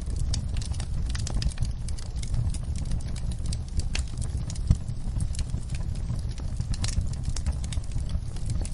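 Wood fire crackling, with irregular sharp pops over a steady low rumble; one louder pop about halfway through.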